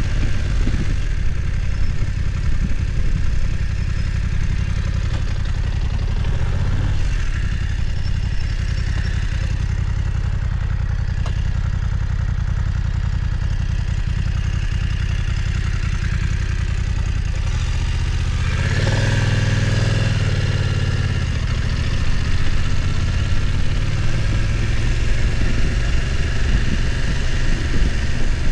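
BMW F900 XR's parallel-twin engine running at low revs under way. Roughly two-thirds of the way in, the revs climb briefly for about two seconds, then drop back to the steady low rumble.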